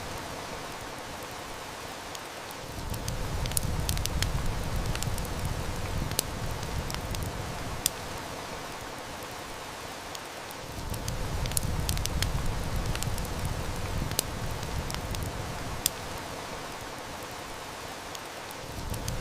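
Steady heavy rain hissing, with a wood fire crackling in sharp, scattered snaps. A low rumble swells in a few seconds in and again about halfway, then drops away near the end.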